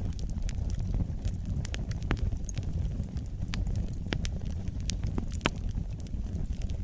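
Wood fire in a fireplace crackling, with irregular sharp pops, a couple a second, over a steady low rumble of the flames.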